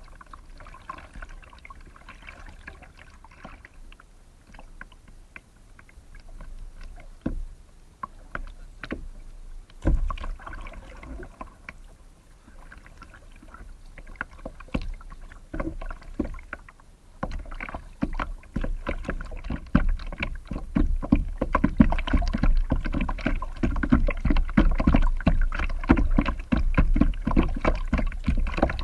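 Kayak paddling: a paddle dipping and splashing in the water with dripping. The splashes grow denser and louder over the last ten seconds or so, with a low rumble underneath.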